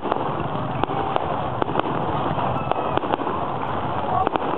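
Aerial fireworks shells bursting: an irregular run of sharp bangs, about two to three a second, over a steady background noise.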